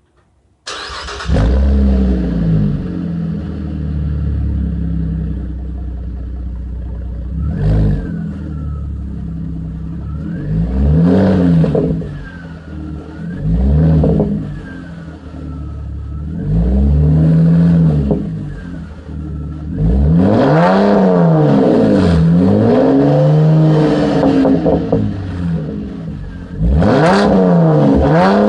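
Pontiac G8's 3.6-litre V6 through a Solo Mach Shorty cat-back exhaust, starting up suddenly about a second in and idling, then revved in a series of rising-and-falling blips, several in quick succession later on, and held at high revs near the end.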